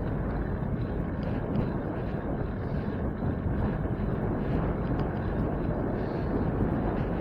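Steady wind rushing over the microphone with a low road rumble, as from a camera on a moving bicycle.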